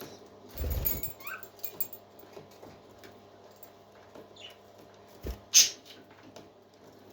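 A newly hatched parrot chick giving a few short, thin, rising squeaks: about a second in and again about four seconds in. A soft thump comes just before the first squeak, and a sharp click, the loudest sound, comes about five and a half seconds in.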